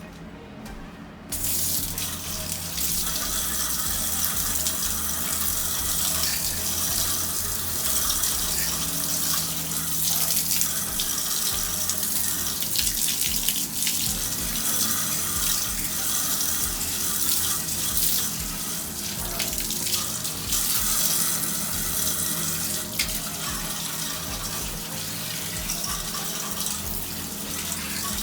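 Water spraying onto an air conditioner's blower wheel to rinse out dirt and mold remover: a steady hiss of running water that starts suddenly about a second in.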